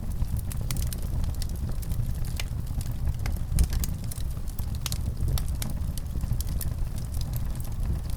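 Fireplace fire crackling, with frequent small pops and snaps scattered over a steady low rumble of the flames.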